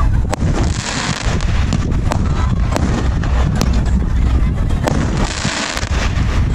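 A 'Desert Storm' 19-shot 1.4G consumer firework cake firing: a string of sharp bangs at uneven intervals, with a stretch of crackling hiss about a second in and another near the end. Wind rumbles on the microphone underneath.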